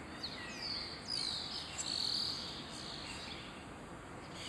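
Small birds chirping and twittering, faint high notes that sweep downward, busiest in the first couple of seconds, over a steady low background hiss.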